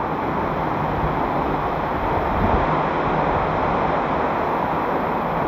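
Tinago Falls waterfall pouring into its pool, an even, unbroken rushing of falling water at a steady level.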